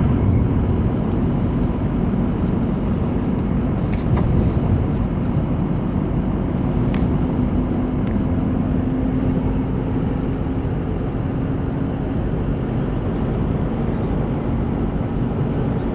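Steady road noise heard from inside a moving vehicle: engine hum and tyre rumble on the highway.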